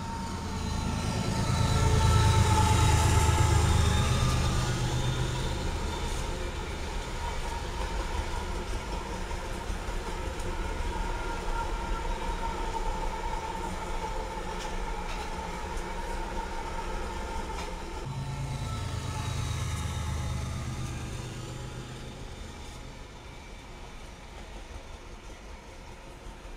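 A train passing close by: a heavy engine rumble swells over the first few seconds, then gives way to the steady rolling of cars on the rails. A second swell of engine rumble comes about three-quarters of the way through, and the sound fades slowly near the end.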